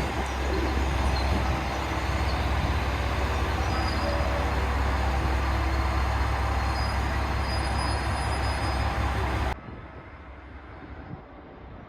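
Train running: a steady loud rumble of wheels on rail, with faint high squeals of the wheels. About nine and a half seconds in it cuts off abruptly to a much quieter, muffled background.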